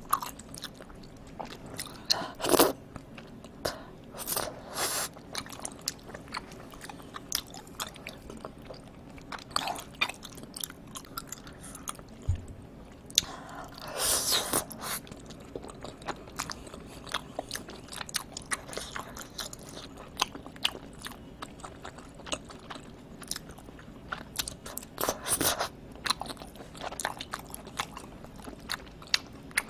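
Close-up eating sounds of chewy tteokbokki rice cakes in thick spicy sauce: wet, sticky chewing with many short mouth clicks and smacks. A few louder, longer bites come about 2, 14 and 25 seconds in.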